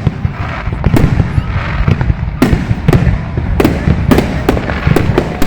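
Aerial fireworks bursting in quick succession: about ten sharp bangs, some coming close together, over a continuous low rumble of shell bursts.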